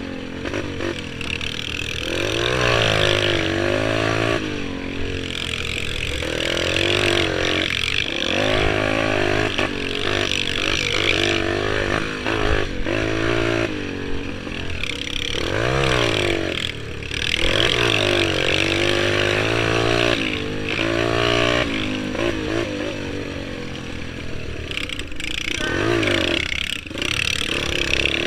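Pit bike engine ridden hard, its pitch climbing as it revs up and dropping back as the throttle eases, over and over.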